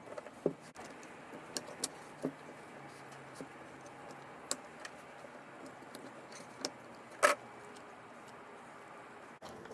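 Small parts being handled on a workbench: scattered sharp clicks and clinks, with the loudest clack about seven seconds in.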